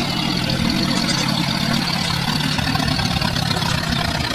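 A small engine running steadily, with a slight shift in its pitch about two seconds in.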